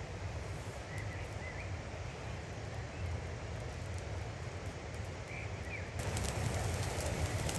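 Outdoor ambience: a steady low rumble of wind on the microphone, with a few short bird chirps. Near the end the sound turns brighter and hissier, with sharp clicks.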